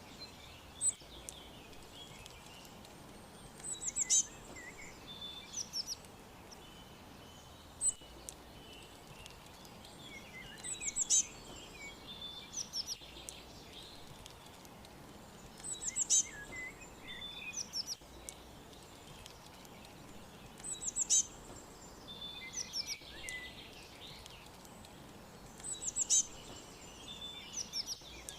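Songbirds chirping and singing over a steady background hiss. One bright, quick song phrase recurs roughly every five seconds, with softer chirps between.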